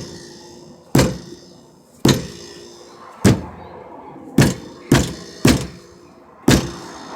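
Gas tank of a 1999 Chevrolet Venture being struck from below, seven thuds about a second apart, each ringing briefly. The tank is banged to jar a suspected stuck in-tank fuel pump into running.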